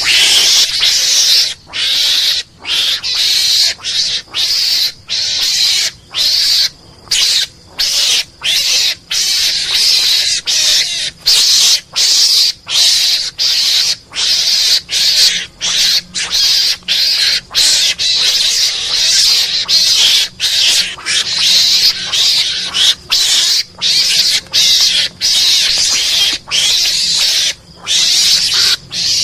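Mongoose (garangan) calls played as a hunting lure: high, harsh chattering calls in quick succession, about two a second, broken by short gaps.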